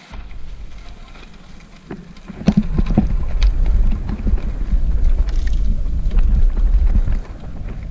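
Wind buffeting the microphone over the rattle and knocks of a bicycle riding a rough dirt road, much louder for most of the stretch, with a cluster of sharp knocks early on, before it eases near the end.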